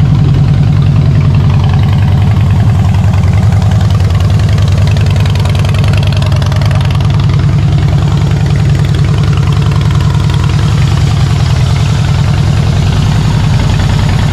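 Harley-Davidson V-twin engine of a 2014 Softail Standard idling steadily with a loud, even low pulse, running with the freshly refitted rear wheel and belt before a test ride.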